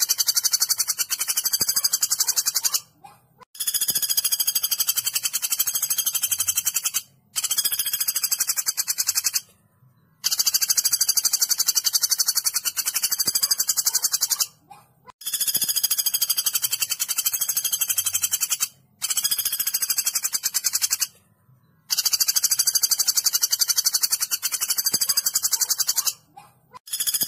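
Woodpecker giving a rapid, high-pitched rattling trill in long bursts of two to four seconds, broken by short pauses, seven times.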